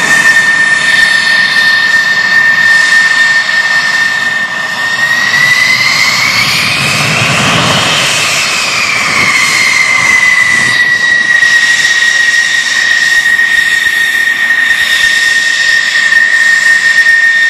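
F-16 jet engine running with a loud steady high whine; about five seconds in the whine rises in pitch, with more rumble underneath, then falls back to its steady pitch a few seconds later.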